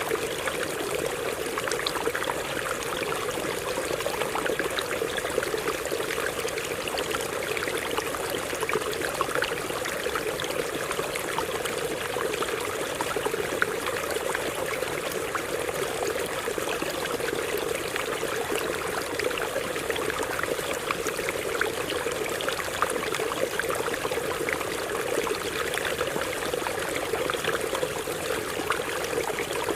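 Water running over rocks in a stream: a steady rush with many small splashes and trickles mixed in.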